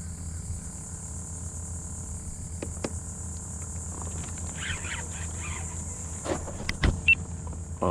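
Steady high-pitched buzz of insects over a low rumble, with a few sharp clicks and knocks near the end.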